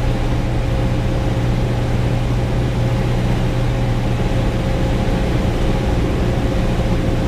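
Single-engine Cessna's piston engine and propeller running steadily in flight, one even drone with no change in pitch.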